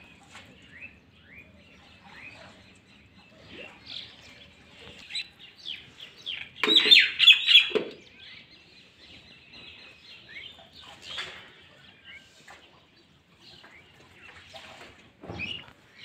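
Birds chirping and twittering, many short calls overlapping, with a louder cluster of calls about seven seconds in.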